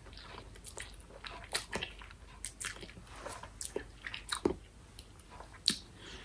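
A person close to the microphone chewing a mouthful of spicy instant noodles, with a string of soft, irregular wet mouth clicks.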